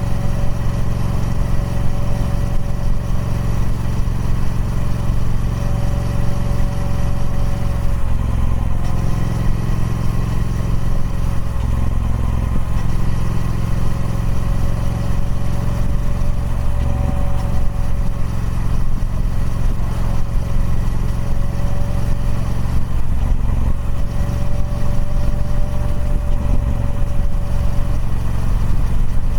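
Engine of a 1200 cc Triumph Speed Twin, a parallel twin on its stock exhaust, running steadily with small rises and falls in engine note. A faint higher whine comes and goes over it.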